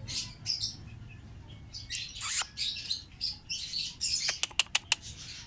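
Pet lovebirds chirping in repeated high-pitched bursts, with a quick run of about five sharp short chirps near the end.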